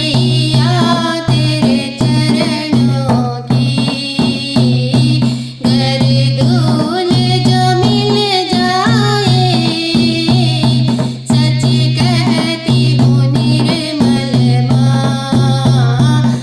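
Devotional bhajan music: a bending melody, likely a singing voice, over a steady low drone and a hand-drum beat.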